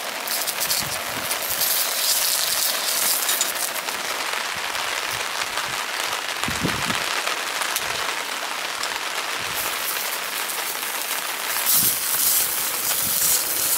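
Steady hiss of rain falling, mixed with sausages sizzling in a cast-iron frying pan on a gas burner. Wind thumps on the microphone a couple of times, about halfway and near the end.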